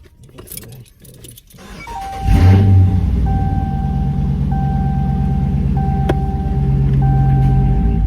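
Dodge Challenger engine started about two seconds in, catching with a loud burst and then idling steadily. Over the idle, the car's warning chime sounds in repeated roughly one-second tones.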